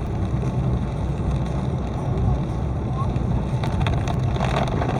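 A car driving in the rain: a steady low rumble of engine and tyres on the wet road, with faint ticks near the end.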